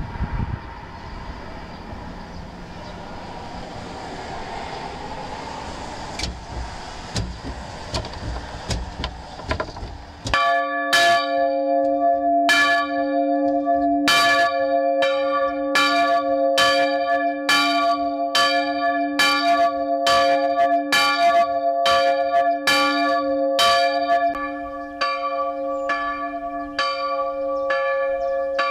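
Swinging bronze church bell, cast in 1596 by Borchardt Gelgeter with a strike tone of d2, ringing to call to a service. For the first ten seconds there is a low rumbling noise with a few faint taps. Then the clapper starts striking fully, a loud stroke about every second and a half, each ringing on; near the end the strokes come quicker and softer.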